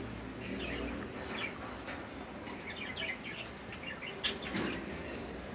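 Small cage birds chirping, many short high calls overlapping, with a single sharp knock a little past four seconds in.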